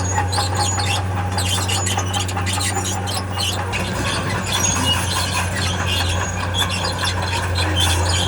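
Diesel engine of a tracked earthmover running steadily while its steel crawler tracks squeal and creak in short repeated squeaks as the machine moves.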